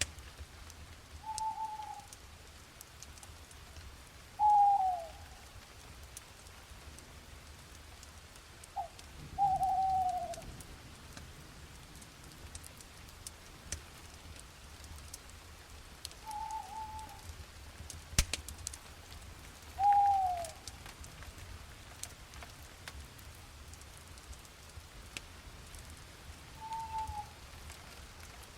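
An owl hooting: six short single hoots, each falling slightly in pitch, a few seconds apart, over light rain with scattered drip ticks. A single sharp tick comes about two-thirds of the way through.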